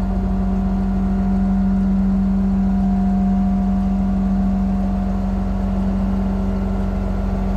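A vehicle engine running steadily, a constant drone with a strong steady hum.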